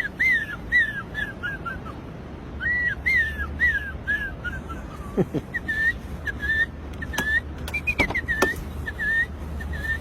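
A man whistling an imitation of birdsong: two runs of quick chirps that fall in pitch, then single chirps repeated at an even pace, with a few sharp clicks among them.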